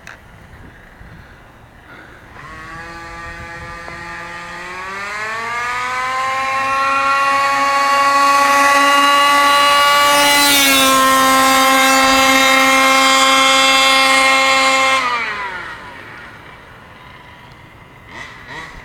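Losi 5ive-T RC truck's 36cc Rovan two-stroke gas engine on a full-throttle speed run: it climbs steadily in pitch for several seconds, holds at a high, loud scream with a slight drop in pitch about ten seconds in, then the throttle is cut about fifteen seconds in and it winds down.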